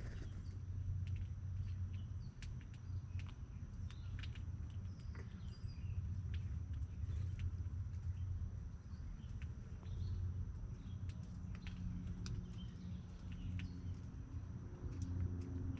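Outdoor ambience: a steady low rumble with scattered small ticks and a few faint bird chirps over a thin, steady high tone.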